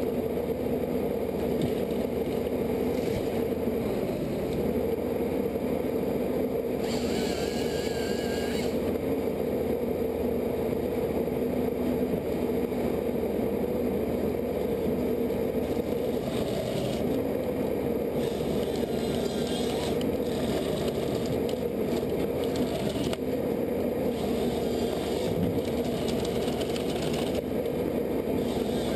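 A machine running steadily with a constant hum, with a brief higher scraping whine about seven seconds in and a few more short bursts of higher-pitched noise later on.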